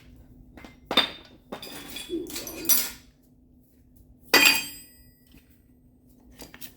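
A few sharp metal clinks and strikes from a hammer and dolly on a pickup truck's sheet-metal quarter panel. The loudest comes a little past halfway and rings briefly.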